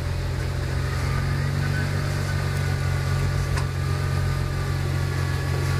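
Jeep engine idling steadily, a constant low hum with no revving.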